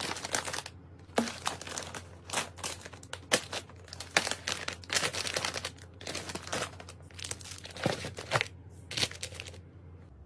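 Plastic snack packaging crinkling as it is handled, in a string of short bursts that stop shortly before the end.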